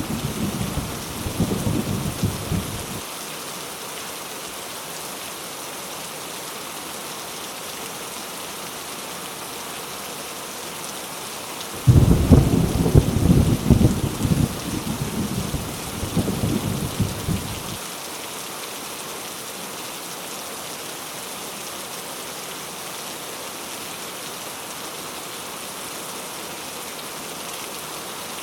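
Heavy rain falling steadily, with rolls of thunder. A rumble fades out in the first three seconds, and another breaks in suddenly about twelve seconds in and rolls on for about six seconds before dying away.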